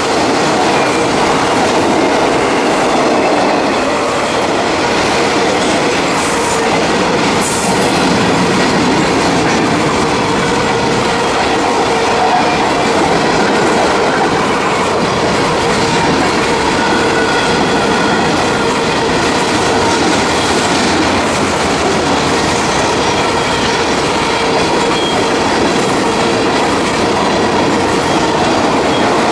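Freight cars rolling past close by: a steady rumble and clatter of steel wheels over the rails, with thin steady squealing tones riding over it.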